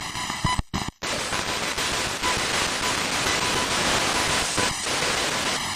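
SBox spirit box sweeping through radio channels: a steady hiss of radio static that cuts out briefly just before a second in.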